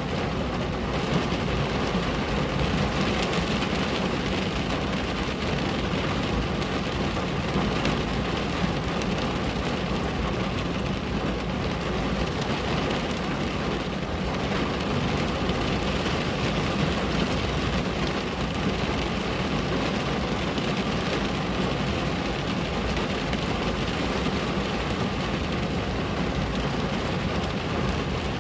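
Steady rain on a window: an even, unbroken hiss with many small ticks of individual drops striking the glass.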